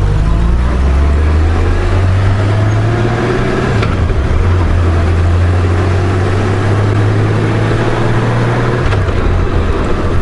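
Honda Gold Wing's flat-six engine running under way with road and wind noise, a steady low hum whose note shifts about four seconds in and again near nine seconds.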